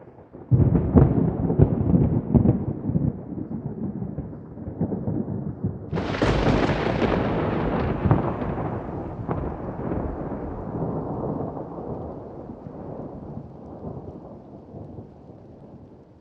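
Thunder: a crackling peal of low rumble breaks out about half a second in, then a sharper, brighter thunderclap about six seconds in rolls on and slowly fades away.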